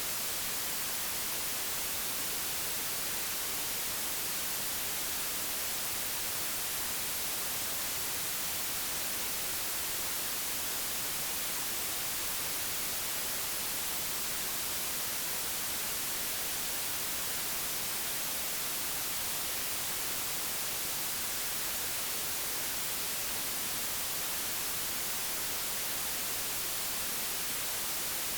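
Digitally generated white noise: a steady, even hiss with no change or events.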